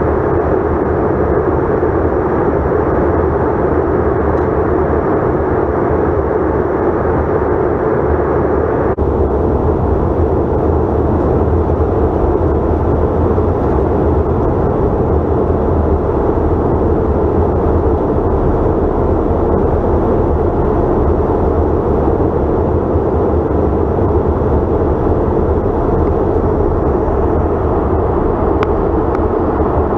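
Steady jet engine and airflow noise heard inside the cabin of a Delta CRJ900 in flight, its two rear-mounted turbofans running evenly. The upper hiss drops slightly about nine seconds in.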